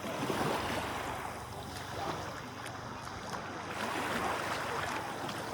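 Sea waves washing in the shallows in two swells, with some wind on the microphone.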